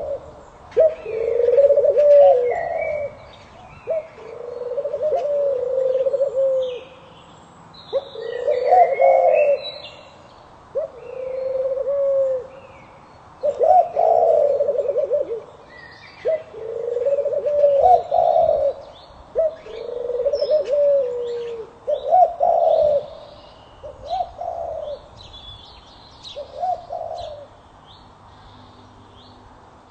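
A dove cooing over and over in short phrases, one every two seconds or so, stopping a few seconds before the end. Smaller birds chirp faintly at a higher pitch in the background.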